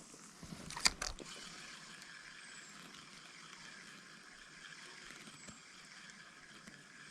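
Small forest stream running steadily, with one short sharp sound about a second in and a few faint high chirps now and then.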